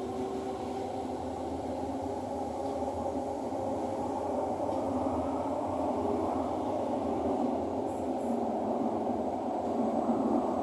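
Thomson-East Coast Line metro train running between stations, heard inside the carriage: a steady running rumble with a faint steady hum, slowly growing louder.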